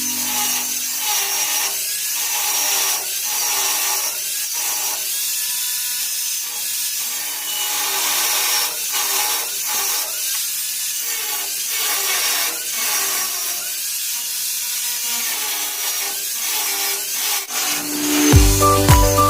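Rhythmic sawing strokes with a hissy rasp, about one stroke a second. Background music comes in near the end.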